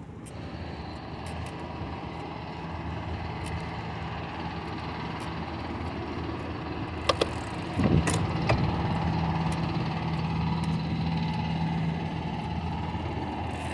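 Bicycle being ridden at speed: tyre, drivetrain and wind noise over a steady low hum, with a few sharp clicks about seven and eight seconds in.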